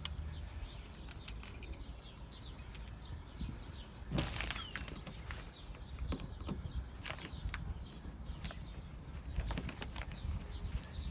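Scattered wooden knocks, taps and handling noise as a new timber batten is worked into a caravan's wall framework, the sharpest knock about four seconds in, with a few short high squeaks.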